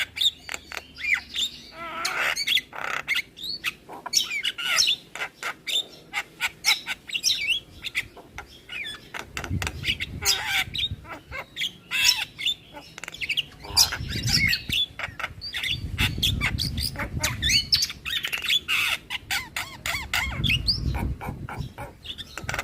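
Javan myna (jalak kebo) singing a fast, varied chatter of harsh squawks, clicks and short whistles. A low rumble comes and goes in the second half.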